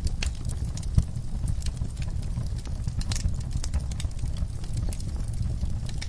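Wood fire burning in a fireplace: many small crackles and snaps over a low steady rumble, with one louder pop about a second in.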